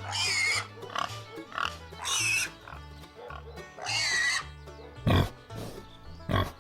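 Pigs squealing, three loud shrill squeals about two seconds apart, over background music with a steady bass line; two sharp low beats near the end.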